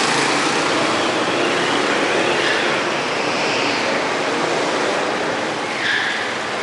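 Steady wind and engine noise of a motorcycle on the move.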